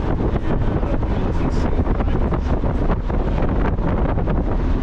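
Wind buffeting the microphone over the steady road and engine noise of a moving Mazda Miata.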